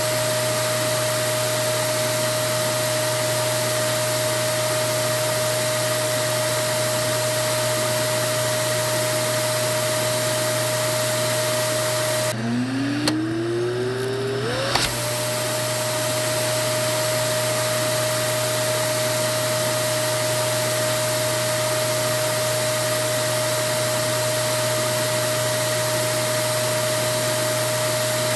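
Vacuum cleaner running with a steady motor whine. About halfway through, the whine drops sharply in pitch and then winds back up to its steady note over a couple of seconds.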